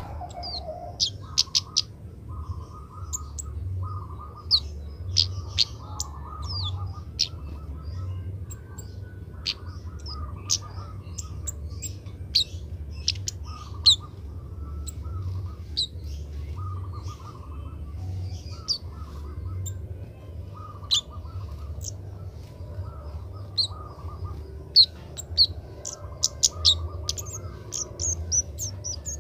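Kemade birds chirping: many short, sharp, high calls at an irregular pace, some in quick runs, over a steady low hum.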